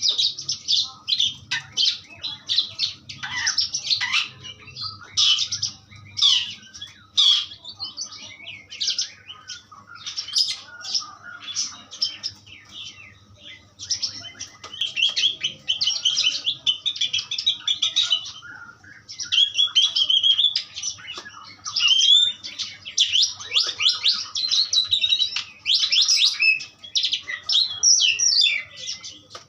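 Asian pied starling singing a long, fast run of chattering, squawky and whistled notes, broken only by two short pauses midway.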